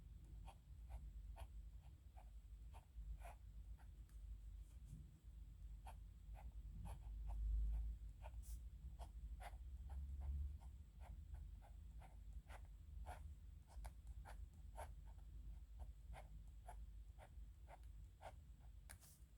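Pen nib scratching on paper in many short, quick strokes, a few a second, while writing characters by hand. A low rumble swells briefly near the middle.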